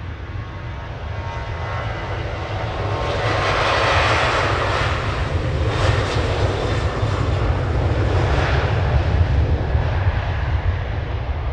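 Aircraft engines of a plane passing close by: a low rumble that swells into a loud roar a few seconds in, stays loudest through the middle, then eases off near the end.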